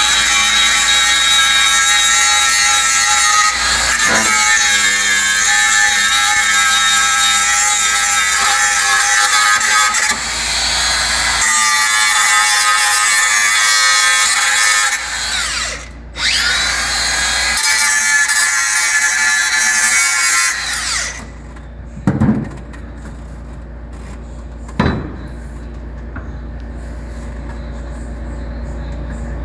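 High-speed handheld electric power tool whining on steel in several long runs with short breaks, then stopping about two-thirds of the way in. Two sharp knocks follow.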